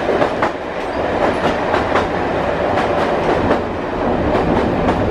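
Running noise inside a British Rail Class 101 diesel multiple unit coach at speed: a steady rumble from under the floor, with frequent irregular clicks and knocks from the wheels on the track.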